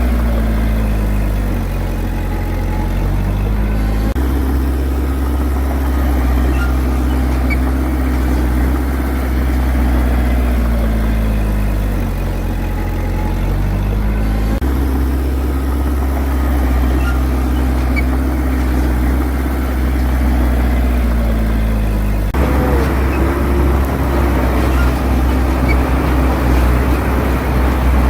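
Heavy equipment diesel engine running under load. Its pitch sags and climbs again several times, and the sound changes abruptly three times.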